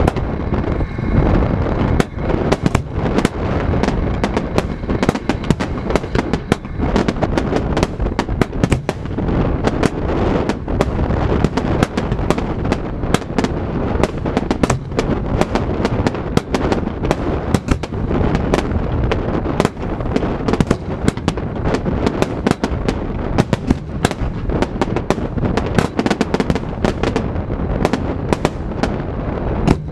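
Fireworks display: a dense, continuous volley of bangs and crackles following close on one another, over a steady low rumble.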